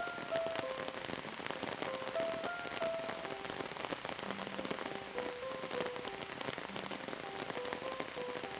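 Steady rain falling, a dense patter with many individual drops, over a slow, gentle melody of single soft notes.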